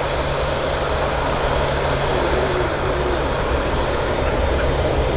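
Airbus A380 taxiing with its four jet engines at low thrust: a steady rushing noise with a low hum, growing slightly louder.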